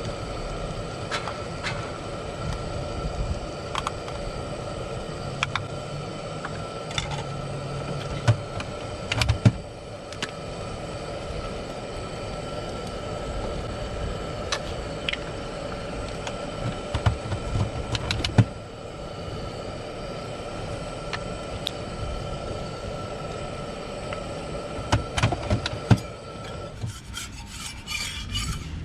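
Steady rubbing and scraping in a crepe food-truck kitchen over a constant machine hum, with scattered light clicks and knocks. Near the end the hum cuts off and rapid light clinks begin.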